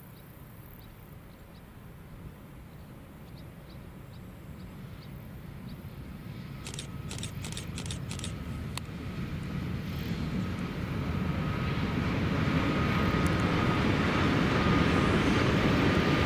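A train approaching, its rumble growing steadily louder, with a faint steady whine joining in about halfway and a quick run of sharp clicks around the same time.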